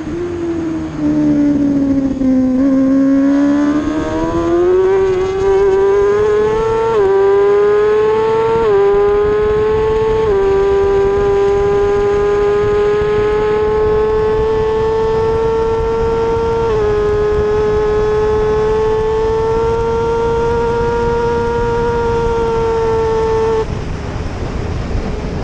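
Racing motorcycle engine at high revs. The note drops as the bike slows over the first couple of seconds, then climbs hard through the gears with four quick upshifts, each a sudden dip in pitch. It holds a high, steady wail and stops abruptly near the end as the throttle closes.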